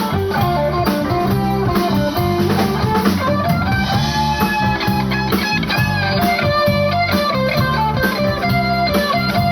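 Live blues band playing: electric guitar lines over bass and drum kit.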